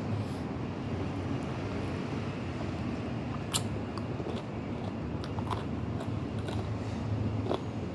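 Eating sounds: scattered sharp clicks and crunches of chewing and biting, the loudest about three and a half seconds in, over a steady low background hum.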